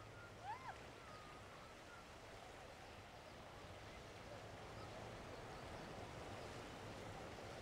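Faint, steady outdoor hiss of wind and surf, with a short whistled bird call of two rising-and-falling notes about half a second in.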